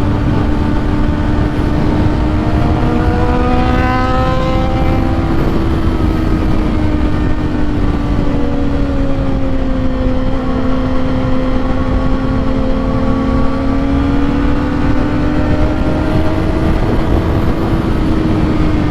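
Inline-four 600-class sport bike engine running at a steady cruise, its pitch drifting slowly up and down, under heavy wind noise on the rider's microphone. A second engine briefly rises in pitch about three to five seconds in.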